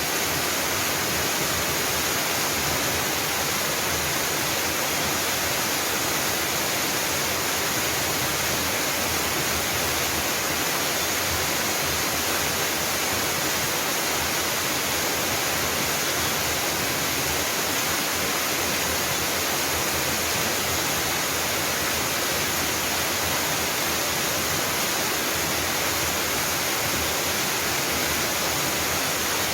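Mountain waterfall pouring in a steady, unbroken rush of water.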